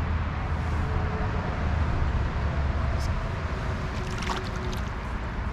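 Steady rush of flowing stream water, with a low rumble underneath and a few faint ticks about three and four seconds in.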